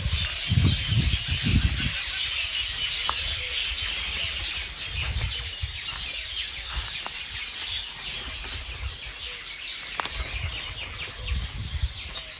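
A flock of small birds chirping and twittering together without a break. Low rumbling bursts come through in the first two seconds, again around five seconds in, and near the end.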